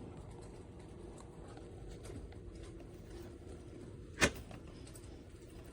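Low, steady room noise with a single sharp click about four seconds in.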